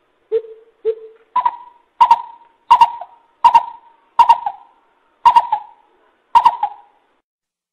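Coucal (bubut) calling: a series of about nine deep hooting notes. The first two are lower, the rest step up in pitch and come a little further apart toward the end.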